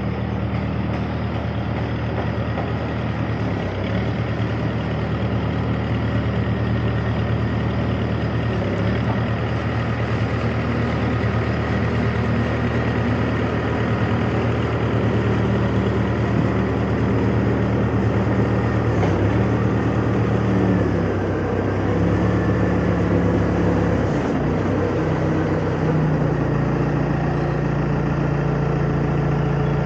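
Heavy engine running steadily, its pitch stepping up and down several times, and settling to a lower, rougher note in the last few seconds.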